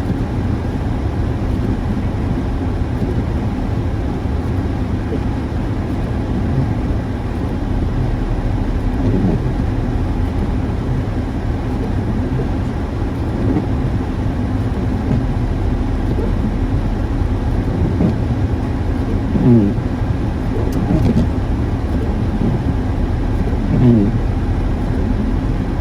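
Steady low rumble of road traffic, with a few short higher-pitched sounds in the second half.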